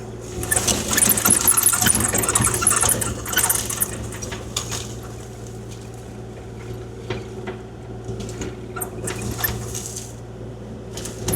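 Kubota KX040-4 mini excavator's diesel engine running steadily, with gravel scraping and rattling as the bucket works it. The gravel rattle is loudest in the first three seconds or so, then comes in scattered bursts.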